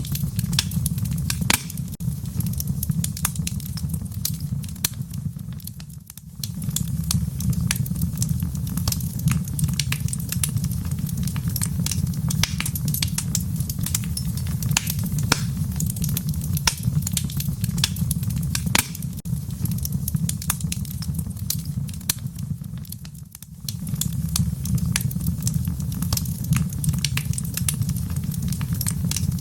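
Wood fire crackling in a fireplace: a steady low rumble of burning with frequent sharp pops and snaps scattered irregularly throughout. The rumble briefly drops away twice, about six and twenty-three seconds in, then returns.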